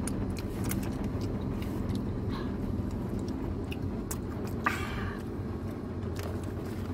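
Wet chewing and finger-licking smacks close to the microphone over the steady low hum of a car idling. One brief louder noise comes a little before five seconds in.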